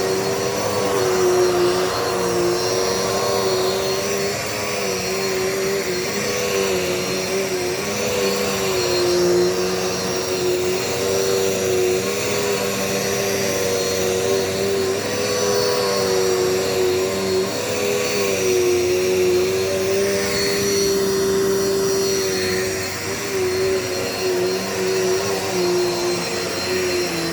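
Dirt Devil Multi-Surface vacuum cleaner running steadily while vacuuming the floor: a constant motor whine that wavers slightly in pitch.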